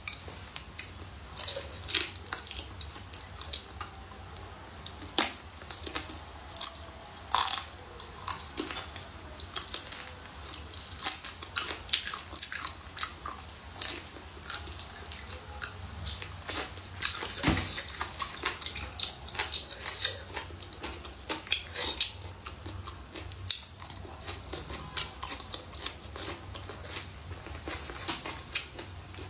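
A person chewing and biting red-braised pig's trotter, with many short, sharp mouth clicks throughout.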